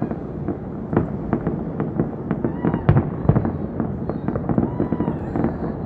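Fireworks going off in rapid succession: a dense, continuous run of bangs and crackling pops, with a few short pitched sounds among them about three and five seconds in.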